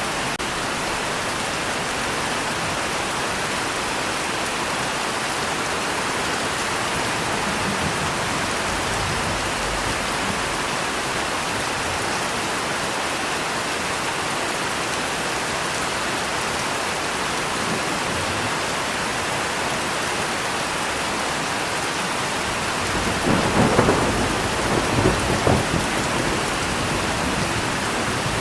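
Steady rain falling, with a rumble of thunder near the end that swells in a few peaks over about three seconds.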